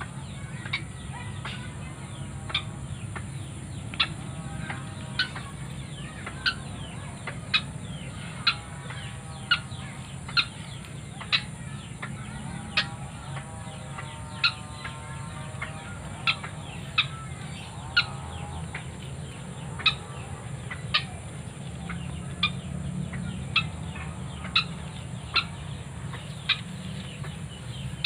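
White-breasted waterhen giving short clucking calls about once a second, with a few softer wavering notes in between. A steady high-pitched insect drone runs underneath.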